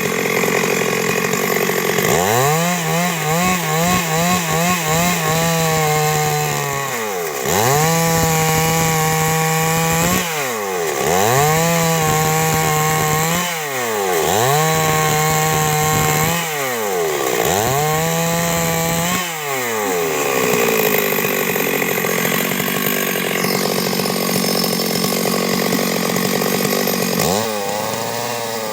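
Stihl MS 382 two-stroke chainsaw cutting wood. The engine holds a high pitch for two to three seconds, then drops sharply and picks up again, five times in a row. It then runs lower for several seconds and revs up again at the very end.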